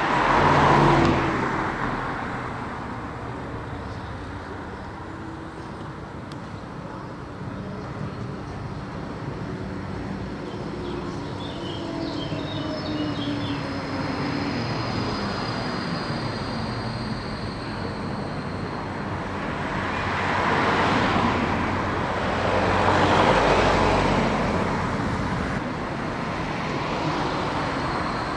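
Road traffic passing close by with a steady background of traffic noise. The loudest vehicle passes are about a second in, and twice about 21 and 23 seconds in.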